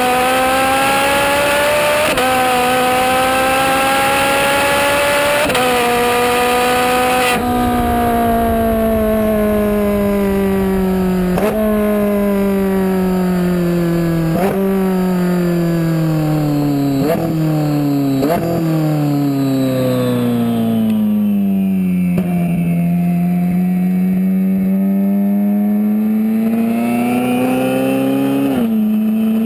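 Hennessey HPE700 twin-turbocharged Ferrari 458 Spider V8 engine pulling hard through two quick upshifts, then falling in pitch as the car slows, with sharp rev blips on several downshifts, and picking up steadily again on part throttle near the end.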